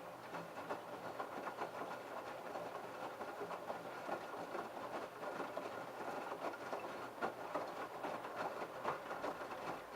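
LG F1222TD direct-drive washing machine drum turning during the prewash, wet laundry and water sloshing and splashing inside with a steady patter of irregular clicks, stopping suddenly near the end as the drum pauses.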